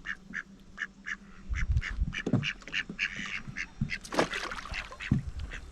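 Ducks quacking repeatedly in a quick series of short calls, about four a second, with a few low thumps in between.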